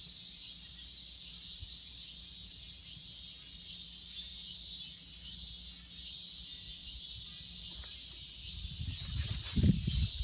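High-pitched, steady drone of a summer insect chorus. Low rumbling comes in near the end.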